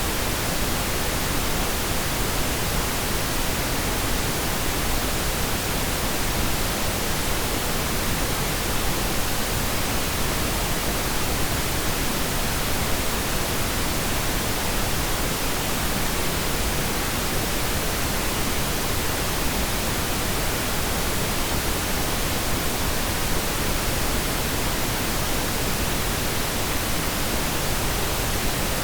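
Steady pink noise: an even, unbroken hiss with no change in level.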